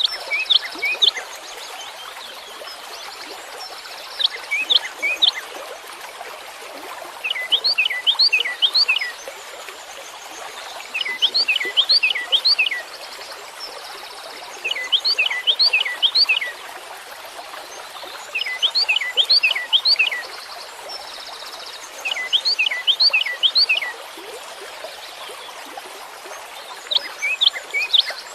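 A songbird repeating a short phrase of four to six quick, downward-sliding whistled notes, about every four seconds, eight phrases in all. A steady background hiss runs under the song.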